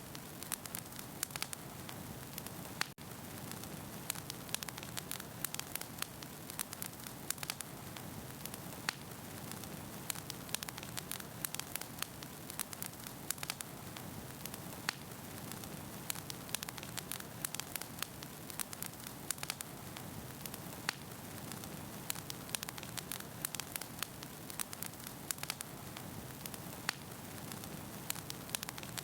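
Wood fire burning in a fireplace: a steady hiss with frequent sharp crackles and pops from the burning logs. There is a very brief dropout about three seconds in.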